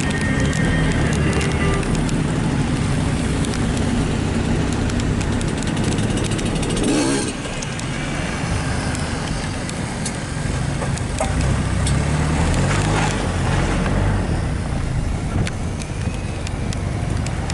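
Engines of jeeps and motorcycles running in a ride, a steady low drone, with a brief rushing sound about seven seconds in.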